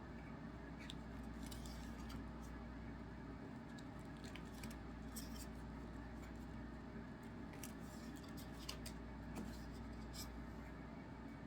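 Faint, irregular crinkles and short ticks of trading cards and foil card packs being handled and flipped through, over a steady low hum.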